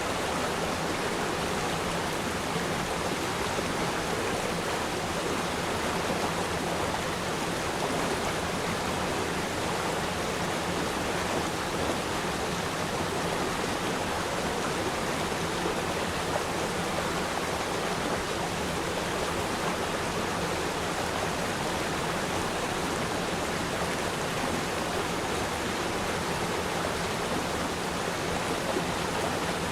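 A river stream flowing: a steady, even rush of running water.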